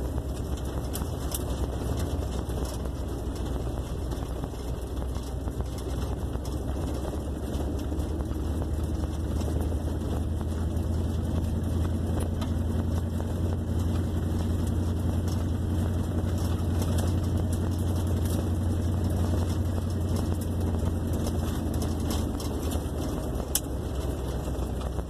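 1958 Plymouth Suburban's engine running steadily with a low hum, growing somewhat louder and fuller for a stretch in the middle.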